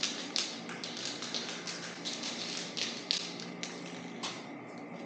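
Aerosol spray paint can being worked: a run of short, sharp hissing clicks, several a second and irregular, that thin out and stop near the end.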